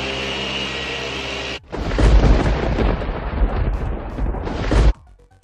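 A machine polisher's steady whine that cuts off abruptly about one and a half seconds in, followed by a loud low rumble lasting about three seconds, then quiet music.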